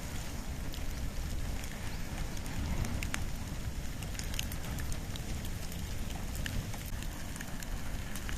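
Wood and bamboo fire burning, with a steady low rush of flames and scattered sharp crackles and pops.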